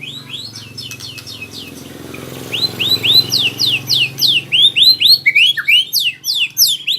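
White-rumped shama (murai batu) practising its rolling song: soft rapid chatter, then from about two and a half seconds in a loud, fast run of repeated whistled notes, most sweeping down in pitch.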